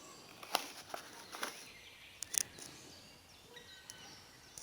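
Quiet forest ambience with faint bird calls and several sharp clicks or snaps.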